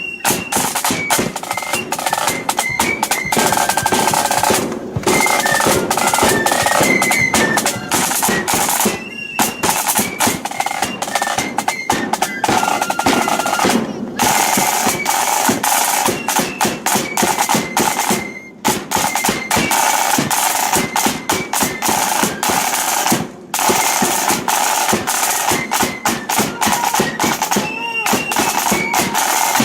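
Ulster blood-and-thunder flute band playing on the march: side drums rattling out loud, continuous rolls and fast beats under a thin, high flute melody, with a few brief breaks in the drumming.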